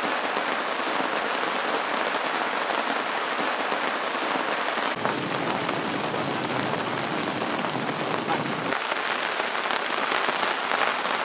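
Steady rain falling on a lake and its wet rock shore.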